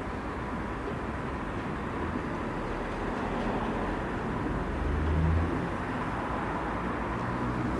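Outdoor road-traffic background: a steady low rumble and hiss of vehicles, swelling briefly about five seconds in as one passes closer.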